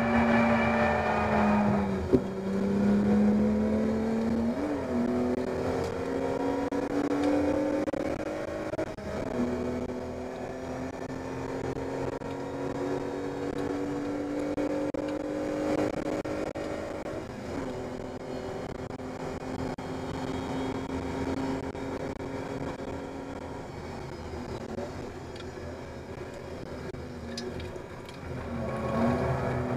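BMW E30 325i's straight-six engine heard from inside the cabin while racing on track, rising and falling in pitch several times as it pulls and backs off. It is loudest in the first couple of seconds, with a sharp click about two seconds in, and swells again near the end.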